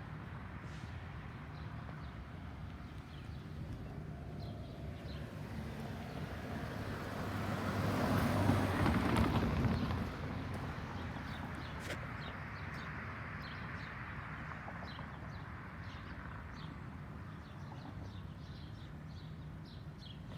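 A road vehicle passes by, building up over a few seconds and then fading, over a steady low traffic hum, while small birds chirp.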